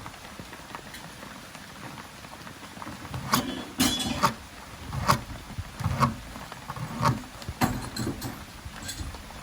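Steady rain patter, with a run of irregular knocks and taps, about one a second, starting about three seconds in.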